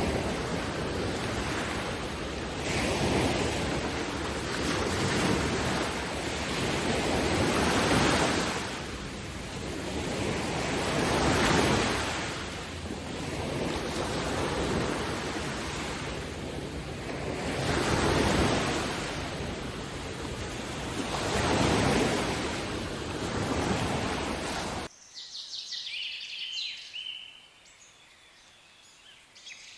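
Ocean waves breaking on a shore, the surf swelling and falling back every few seconds, with wind. About 25 seconds in it cuts off abruptly to a much quieter background with faint bird chirps.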